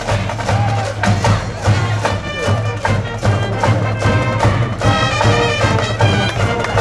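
High-school brass band playing a baseball cheer tune over a steady drum beat, with the cheering section's voices mixed in.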